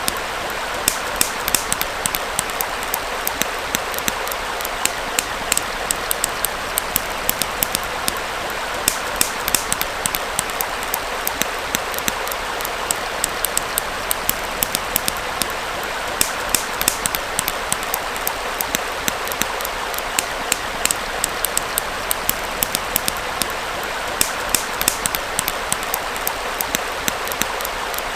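Campfire crackling, with many sharp irregular pops several times a second, over the steady rush of a small stream flowing.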